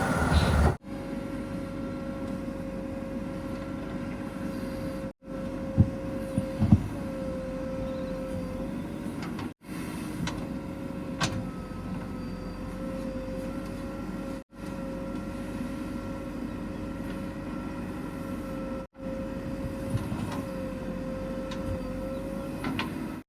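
Heavy diesel machine engine running steadily with a constant whine over it, broken by sudden cuts about every four to five seconds, with a few sharp knocks.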